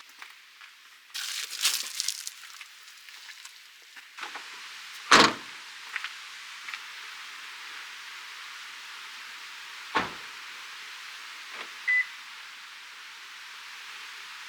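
Handling noises over a steady hiss: rustling, two thuds about five seconds apart, and a single short beep near the end.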